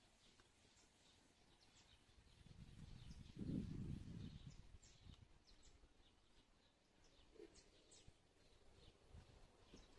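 Faint short high chirps of small birds, scattered and repeated throughout. A low rumble swells and fades in the middle and is the loudest sound.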